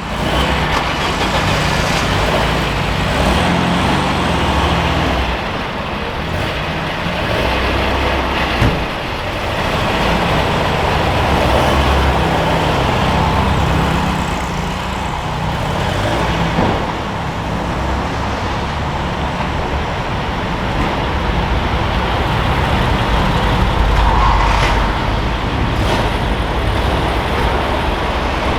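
A car engine running with a steady low rumble that rises and falls a little in level.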